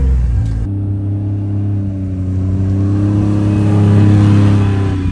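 A motor vehicle's engine running steadily, rising slightly in pitch and growing louder toward about four seconds in, then easing off near the end.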